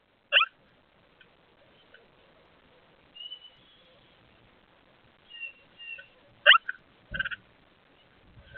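Songbirds calling at a feeder: scattered short calls, among them harsh buzzy notes, two quick downward-sweeping notes and a few thin high whistles. A low thud comes about seven seconds in.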